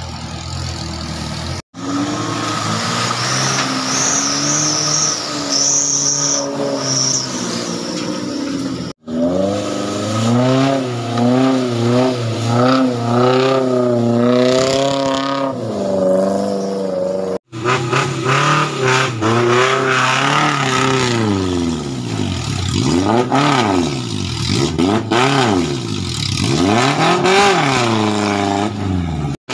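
Off-road Suzuki Jimny 4x4 engines revving hard through a muddy, shallow river track, the revs rising and falling under load, broken by three brief gaps. In the last part an engine is revved up and down again and again, about every second and a half, as it pushes through the water.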